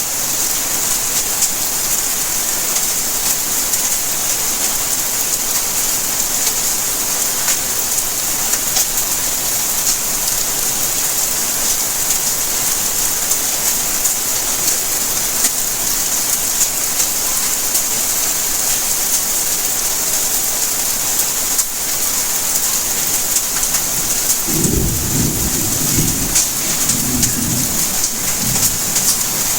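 Steady rainfall with a dense patter of drops. Near the end, a low roll of thunder rumbles for several seconds.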